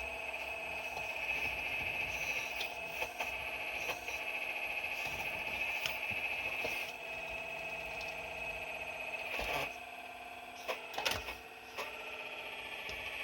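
Excavator working: a steady, high-pitched, wavering whine from its drive, broken by sharp knocks and clatter of rock, several in quick succession near the end.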